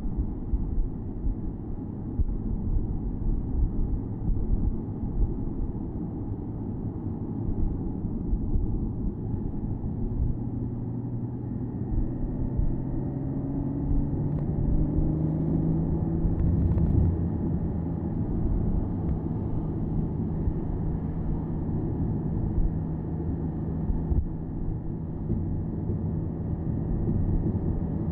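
Porsche Boxster S 987.2's flat-six engine running under way, heard from the open-top cabin over a steady low road and wind rumble. The engine note rises gently about halfway through, then holds steady.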